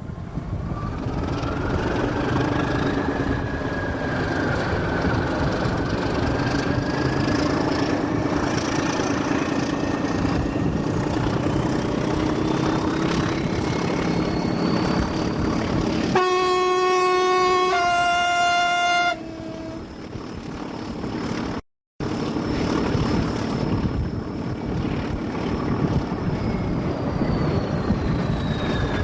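GER N7 0-6-2T steam locomotive on the move, a continuous rumble of running noise with faint high tones slowly gliding in pitch. About two-thirds of the way in, its steam whistle sounds for about three seconds, stepping to a different pitch halfway through. The sound cuts out for a moment shortly after.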